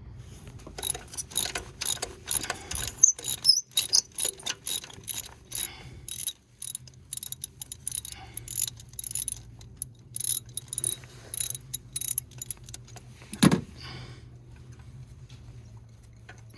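Socket ratchet clicking in quick runs of strokes, working a spark plug out of a 2.4-litre four-cylinder; one heavier knock near the end.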